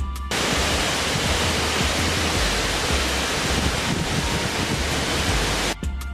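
A loud, steady rushing noise, like rushing water or static, cuts in abruptly just after the start and stops abruptly near the end. Low notes of background music continue underneath.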